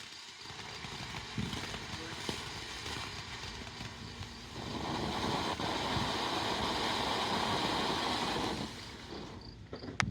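A lit ground firework hissing and spraying. The hiss swells about halfway through, holds steady for about four seconds, then cuts off abruptly. A sharp crack comes near the end.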